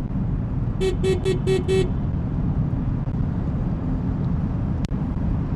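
Steady road and engine rumble heard from inside a moving Subaru's cabin. About a second in come five short, quick beeps, and a single sharp click follows near the end.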